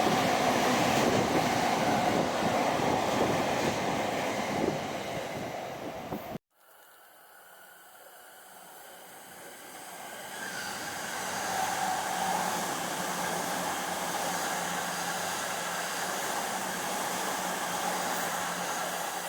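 Electric train running by with a steady rushing noise that cuts off abruptly about six seconds in; then another train's sound builds up over the next few seconds and holds steady.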